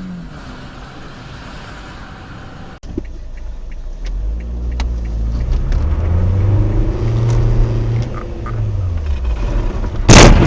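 Car engine and road noise: the engine picks up speed, then eases off, and near the end a loud, sudden crash of a car collision.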